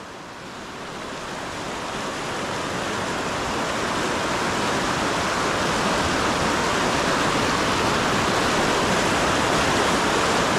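Rushing river current, a steady hiss of flowing water that grows louder over the first few seconds and then holds.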